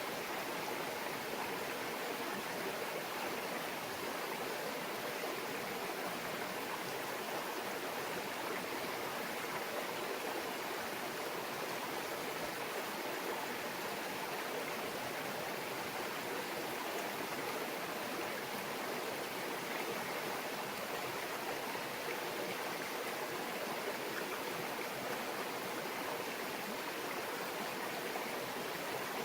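Small mountain stream babbling steadily over rocks, a continuous even rush of flowing water.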